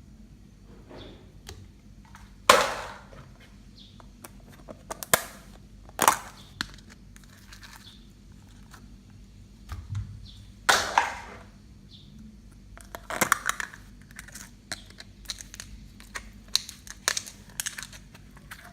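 Slime being squished and folded by hand, giving irregular sharp pops and crackles, with two louder pops about two and a half seconds in and about eleven seconds in, and a run of small crackles near the end.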